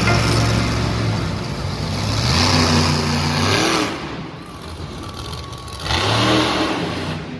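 Monster truck engine revving hard in an arena: the pitch climbs to a peak just before the middle, falls away, then climbs again near the end.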